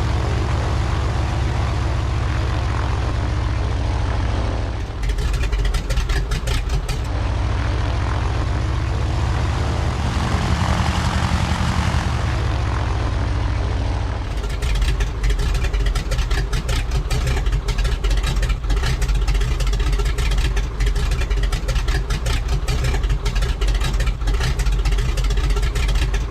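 Engine running steadily. About 15 seconds in it changes to a slower, pulsing run with distinct rapid beats, as at idle.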